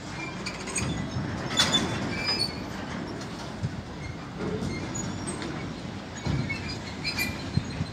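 Freight train of sliding-wall boxcars rolling past at close range: a steady rumble of wheels on rail, sharp clicks over the rail joints, and a few short high wheel squeaks.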